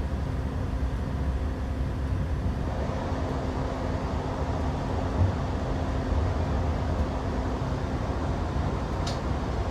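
Two-coach diesel multiple unit running along the line: a steady low rumble of engine and wheels on track with a faint constant hum, and one brief high-pitched squeak near the end.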